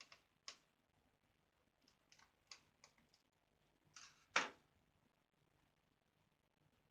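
Scattered light clicks and taps from a laptop's plastic case, screws and screwdriver being handled during disassembly, with one sharper knock about four and a half seconds in.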